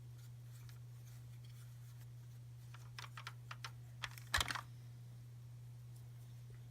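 Light clicks and taps of small plastic toys being handled, with a short louder clatter about four and a half seconds in, over a steady low electrical hum.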